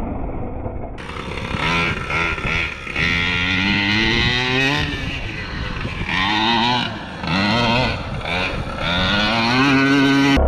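Two-stroke gas engine of a large-scale RC monster truck revving in repeated bursts. The pitch climbs on each throttle run and drops back between them, with the highest run near the end.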